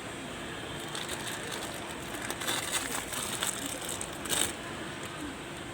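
A run of short clicks and crackly scrapes for a few seconds over a steady background hiss, loudest about four seconds in.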